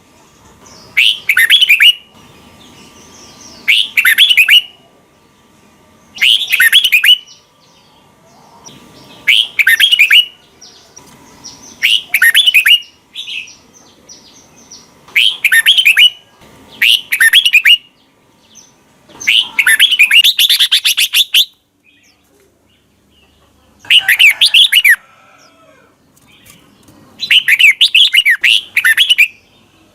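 Red-whiskered bulbul singing its short, bright warbled song phrases, each about a second long, repeated every two to three seconds with short pauses between; one longer phrase comes about two-thirds of the way through.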